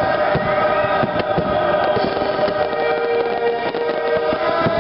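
A dense fireworks barrage: rapid, irregular bangs and crackles from many shells bursting close together. Show music plays underneath.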